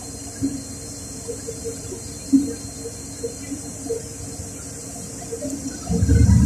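LiAZ 4292 city bus heard from inside the cabin: a steady low hum with a few faint short sounds while the bus stands, then about six seconds in the engine and drivetrain noise rises sharply as the bus pulls away.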